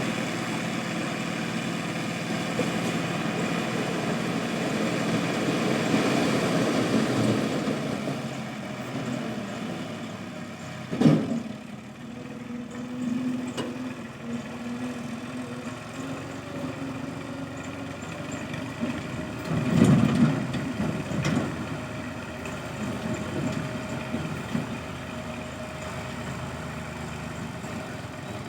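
Tractor engine idling steadily, with a sharp knock about eleven seconds in and a brief louder surge around twenty seconds in.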